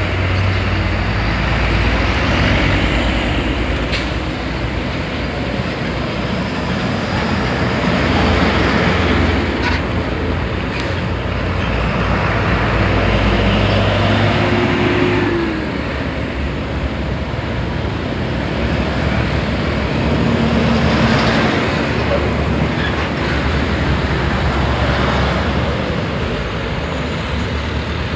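Heavy highway traffic dominated by big trucks: diesel engines running and tyre noise in a continuous wash that swells and eases several times.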